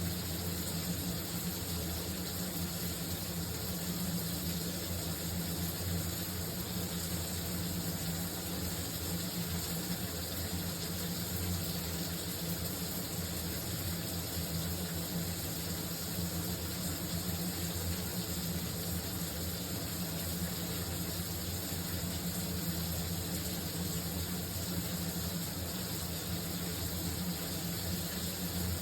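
Shower water running steadily, a constant spray of falling water.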